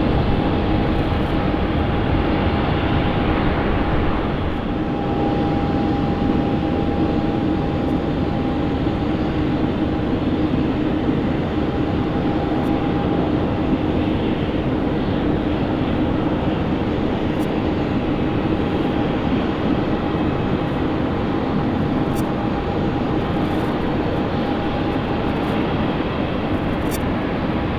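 Jet airliner engines running: a loud, steady rushing noise with a steady whine in it, easing slightly about four seconds in.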